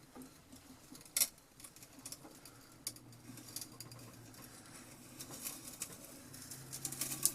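Faint scraping and scattered light clicks of a hand drill turning a freshly sharpened auger bit into wood, with a sharper click about a second in and busier clicking near the end.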